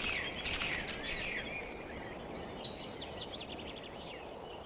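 Birds chirping and calling over a steady background of natural ambience, the calls thinning out toward the end.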